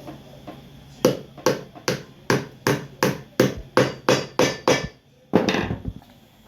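Hammer striking a boot sole in a quick even series of about ten blows, roughly two and a half a second, as the sole is worked during a resole. Near the end comes one short, rougher burst of noise.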